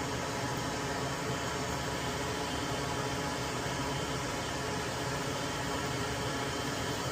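Hot air rework station blowing a steady hiss of hot air onto a relay's solder joints to desolder it from a circuit board.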